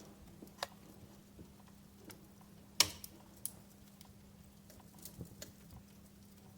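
Wood fire crackling: scattered sharp pops and snaps, with one much louder pop a little under three seconds in. A faint steady hum runs underneath.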